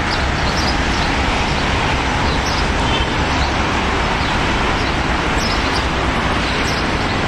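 Car running slowly over rough, wet ground, heard from inside the cabin: a steady low rumble of engine and tyres, with faint bird chirps now and then.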